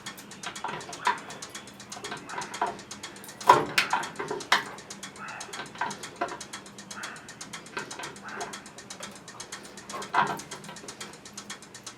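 Ratchet wrench clicking in fast, even strokes while a plastic valve is tightened into a pressure washer, with a few louder knocks. The plastic threads strip easily if overtightened.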